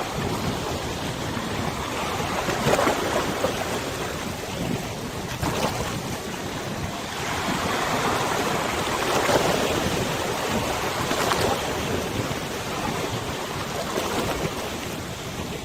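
River water washing and lapping in uneven swells, with wind blowing on the microphone.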